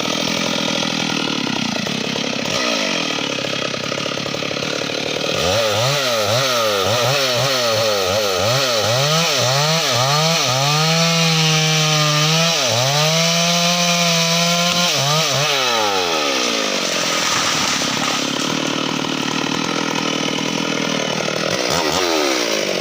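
Two-stroke chainsaw cutting teak: the engine is revved in quick repeated throttle bursts, then held at high revs for a few seconds with a brief dip partway, and drops back to a low running speed about two-thirds of the way through.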